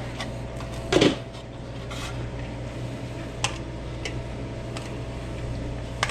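Kitchen work on a restaurant line: a loud clatter about a second in, then a few light clicks and taps of utensils and containers, over the steady hum of kitchen equipment.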